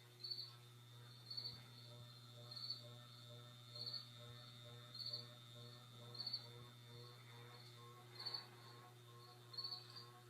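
1989 SMC Laguna KB-36 fat-motor ceiling fan running on low speed: a faint, steady low motor hum with a thin high whine, and a short high chirp repeating about every 1.2 seconds.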